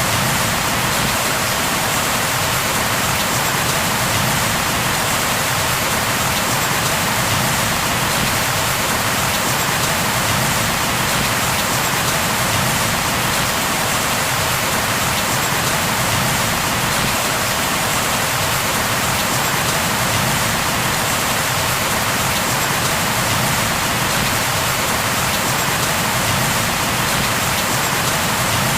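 Steady rain falling on a surface, an even unbroken hiss of drops with no thunder.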